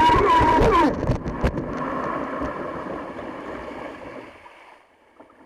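Background music stops about a second in. Then comes rushing water and the hum of a small jet-propelled kayak, with two knocks, fading away to near silence.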